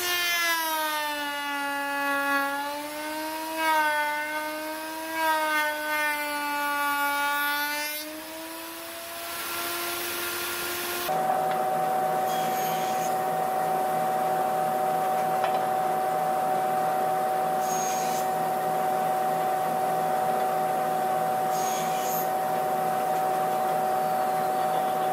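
Electric power tool motor whining. For about the first eight seconds its pitch sags and recovers, as under changing cutting load. From about eleven seconds on it holds one steady pitch.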